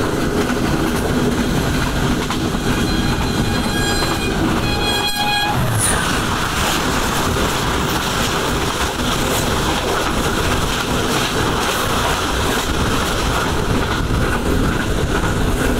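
Steady rush of wind and rolling wheels from a moving passenger train as another passenger train passes close by on the next track. A locomotive horn sounds about two and a half seconds in, for about three seconds.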